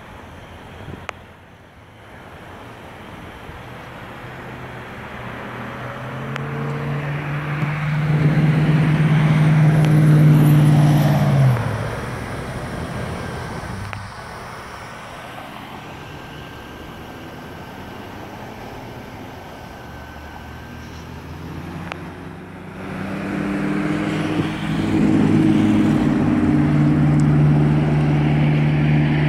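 2007 Mercedes-Benz S550's 5.5-litre V8 pulling the car up to speed. The engine note builds and holds loud, drops off sharply about a third of the way through and settles to a quieter cruise, then builds again past the three-quarter mark and stays loud.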